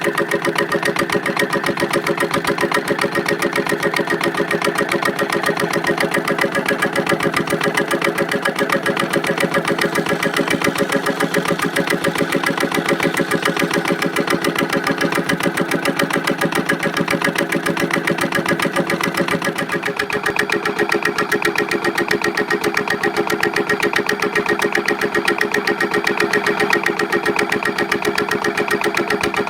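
Victor diesel engine running steadily under an even firing beat, driving a Keystone electric generator; its tone shifts slightly about twenty seconds in.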